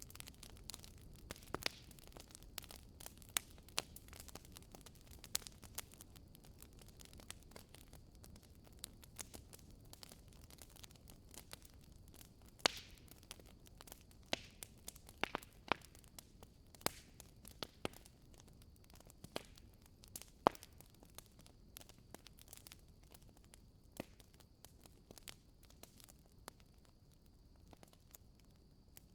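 Fire in a fireplace crackling, with irregular small pops over a low steady rush and a couple of louder snaps.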